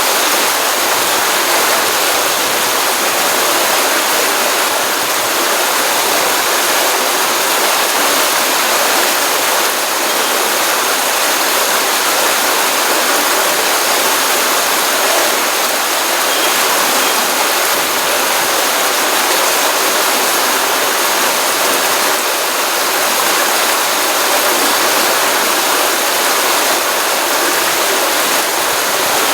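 Stream water flowing out of a pond after a rainstorm, running in a steady, unbroken rush with no pauses or changes.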